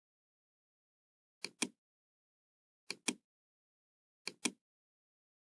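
Computer mouse double-clicking three times, each a pair of sharp clicks, about a second and a half apart, against silence.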